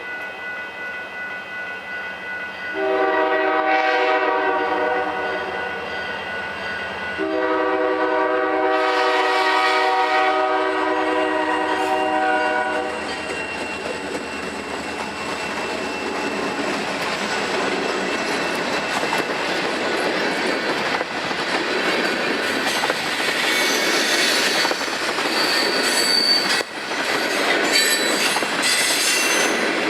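Diesel freight locomotive horn sounding two long blasts, then the freight train rolling past with steady wheel-on-rail noise, clatter and some wheel squeal.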